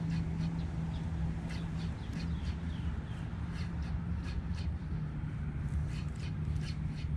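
Birds calling in many short, sharp, repeated chirps, over a steady low hum.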